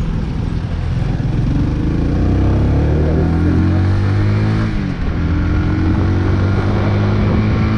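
Big Boy SuperLight 200cc single-cylinder motorcycle engine accelerating away from a standstill, the revs climbing, dipping briefly about five seconds in at a gear change, then climbing again, with wind rushing past.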